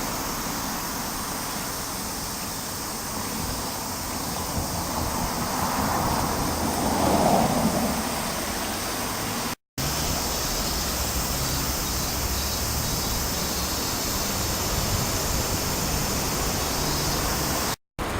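Sea surf washing on a beach, a steady rush with one wave swelling louder about seven seconds in. The sound drops out for an instant twice.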